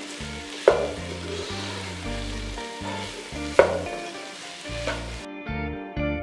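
Cauliflower florets frying in hot oil with onion and fenugreek leaves, sizzling as a wooden spatula stirs them, with three sharp knocks of the spatula against the pan: about a second in, past three and a half seconds, and near five seconds. The sizzle cuts off after about five seconds.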